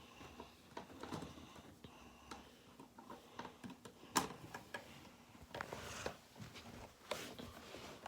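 Scattered small clicks, taps and rustles of hands handling things at close range, with one sharper click about four seconds in.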